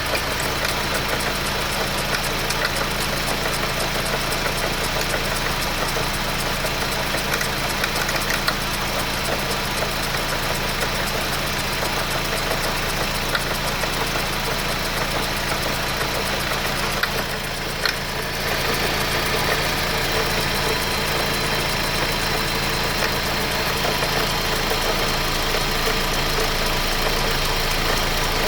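Audi A4 B6's 2.0 ALT four-cylinder petrol engine idling steadily after a cold start, making strange noises whose cause the owner cannot tell. The sound dips briefly about two-thirds of the way through, then runs on a little louder.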